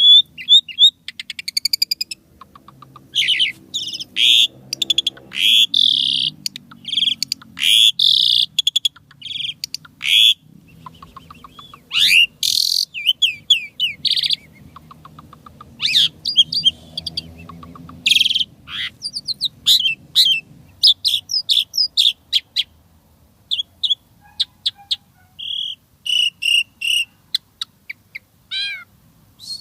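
Asian pied starling (jalak suren) singing a long, varied song of quick chattering rattles, clicks and whistled upslurs in rapid-fire phrases with short pauses between them.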